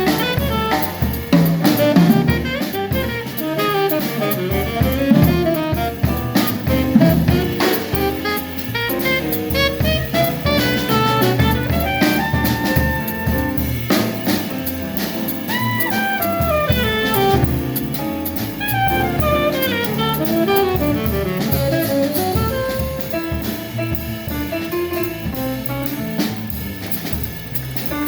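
Live jazz quartet playing, with a saxophone soloing in quick rising and falling runs over a drum kit.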